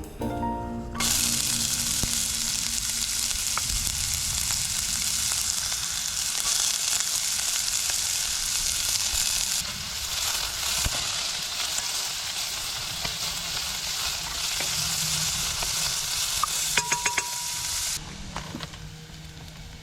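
Food sizzling steadily in hot oil in a pan over the fire, with a few light clicks near the end before the sizzle drops away to a quieter hiss.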